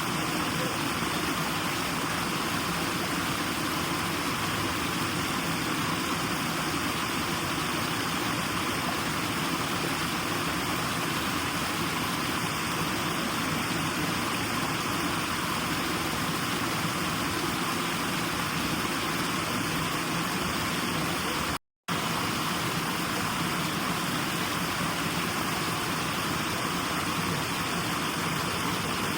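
Steady, even hiss of a white-noise sleep track, cut by one brief dropout to silence about two-thirds of the way through.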